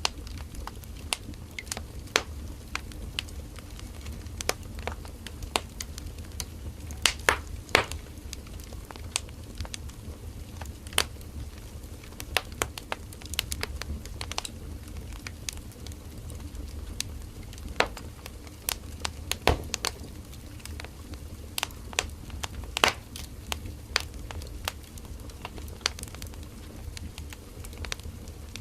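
Firewood burning in a campfire: irregular sharp crackles and pops over a steady low rumble of the flames, with a cluster of louder pops about seven seconds in.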